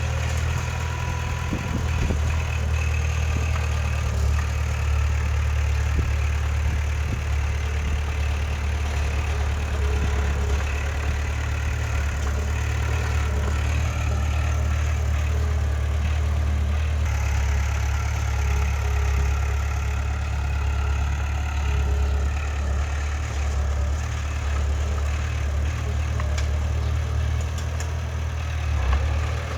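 Heavy earthmoving machine's diesel engine running steadily with a deep, even hum; the higher part of the sound shifts a little just past the halfway point.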